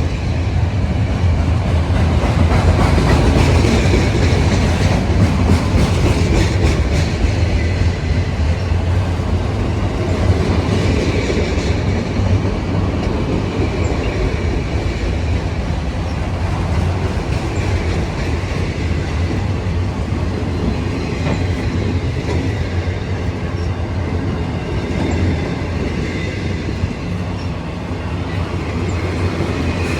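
A train passing close by, its steel wheels rumbling steadily and clacking over the rail joints, with a faint high squeal of wheel on rail at times.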